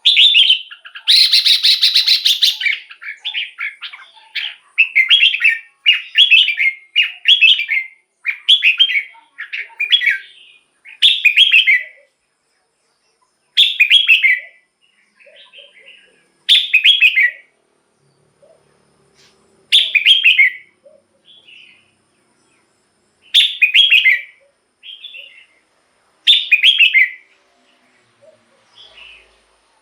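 Red-whiskered bulbul singing: short, bright warbled phrases, one every second or two at first, with longer pauses between them after about twelve seconds. About a second in there is a noisy, scratchy burst lasting about a second and a half.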